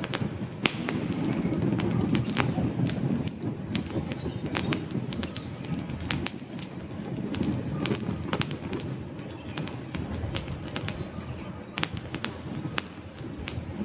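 Wood campfire burning: irregular sharp crackles and pops from the logs over a steady low rumble of the flames, with faint bird calls in the background.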